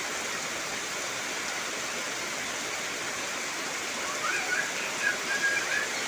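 Heavy rain falling steadily on trees, an even rushing hiss. A brief run of short, high chirping sounds cuts through it about four seconds in.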